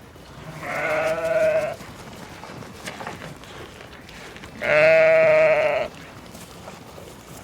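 Sheep bleating twice, each call about a second long with a wavering pitch, the second one louder.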